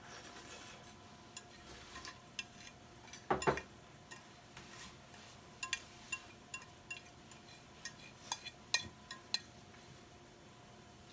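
Light clinks and taps of dishes and utensils: a string of short, sharp knocks with a louder clatter about three and a half seconds in, over a faint steady hum.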